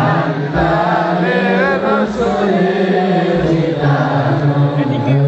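Background music: male voices chanting an Islamic devotional song (sholawat), with long held notes and a wavering ornamented passage over a steady low sung note.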